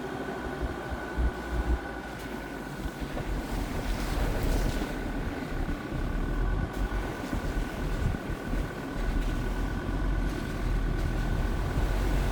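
Jeep Grand Cherokee WJ's 2.7 CRD diesel running on the move, with a steady high whine, a rumble that rises and falls and wind buffeting the microphone.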